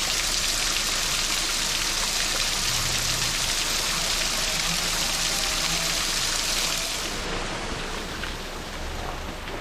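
Steady hiss of falling or rushing water, which drops away abruptly about seven seconds in.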